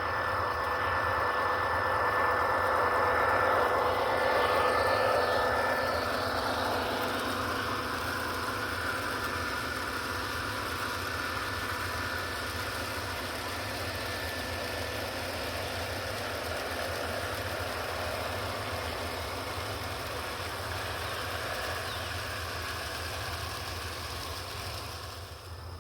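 MTH O scale model diesel locomotive pulling a freight train on the track, its wheels rolling and its sound system playing a diesel engine's running sound. Loudest a few seconds in, then easing off a little.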